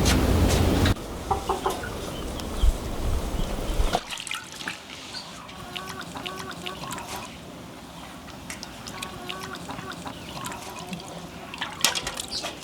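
A low machine rumble drops in level about a second in and stops abruptly about four seconds in. After that, chickens cluck softly, with scattered small clicks.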